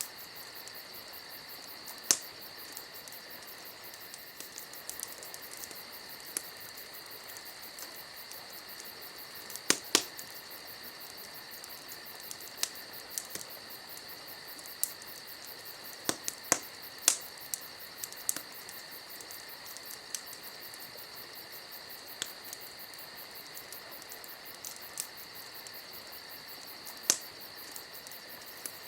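Campfire crackling, with scattered sharp pops, several of them loud, over a steady high chirring of crickets.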